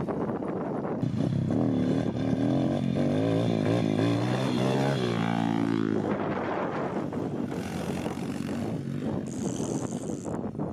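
Dirt bike engine revving, its pitch rising and falling, then climbing steeply about halfway through as the throttle is opened, as for a wheelie attempt.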